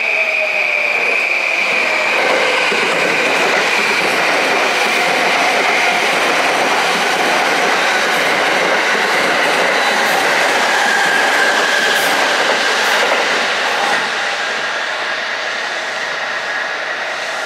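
Electric passenger trains passing close by at speed, their wheels clattering steadily over the rails. A high whine at the start fades out over the first few seconds, and the noise eases off a little near the end.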